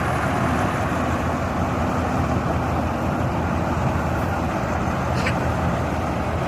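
Diesel engine of a Swaraj farm machine running steadily at constant speed, with a brief faint high squeak about five seconds in.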